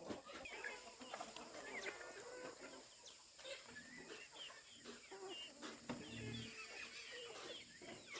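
Chickens calling faintly: many short high chirps, with scattered clicks and a brief low call about six seconds in.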